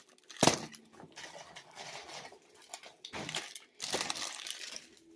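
Grocery packaging being handled: crinkling and rustling, with a sharp knock about half a second in as something is set down.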